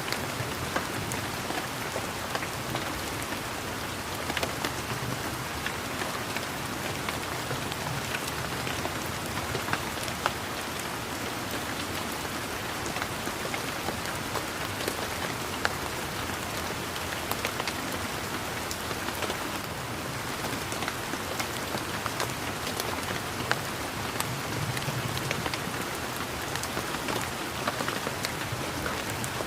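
Steady rain falling, a constant hiss with many individual drops ticking sharply on close surfaces. A faint low rumble swells under it twice.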